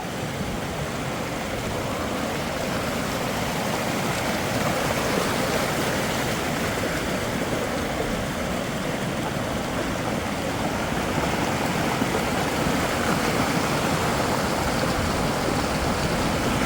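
Steady rushing noise of heavy rain and running water, even throughout with no distinct drops or knocks standing out.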